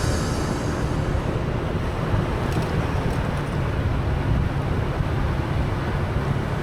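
Riding noise on a moving motorcycle: a steady rush of wind on the microphone with low road and engine rumble underneath.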